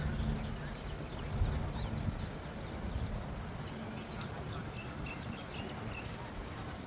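Small birds chirping, with quick descending whistled notes about four and five seconds in, over a low rumble.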